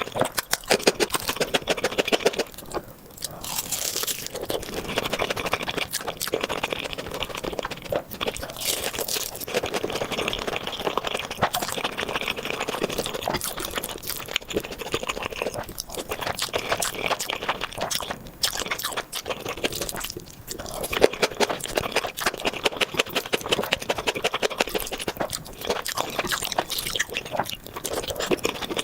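Close-miked mukbang eating: steady crunching, biting and chewing of food, with many small crackles and brief pauses between mouthfuls.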